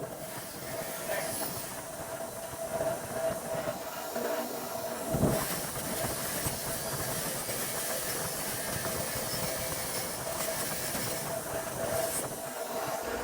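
Steady mechanical hum with a hissing noise over it, and a single knock about five seconds in.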